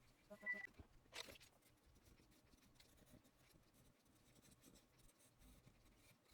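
Faint scratching of a soft pastel pencil drawing on paper. About half a second in there is a short high-pitched sound, and just after a second a quick falling swoop.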